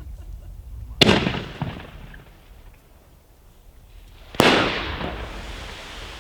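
Two aerial firework shells bursting about three and a half seconds apart, each a sharp bang followed by a rolling echo that dies away over a second or so.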